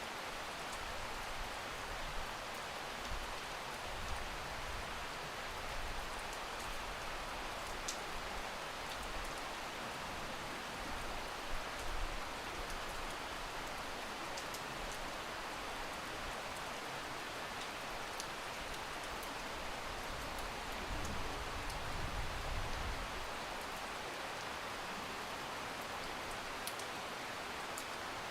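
Steady rain falling, an even hiss with scattered drop ticks. A low rumble swells briefly about two-thirds of the way through.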